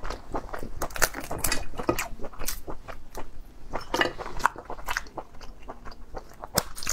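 A person eating crab meat close to the microphone: biting and chewing with many quick, irregular mouth clicks.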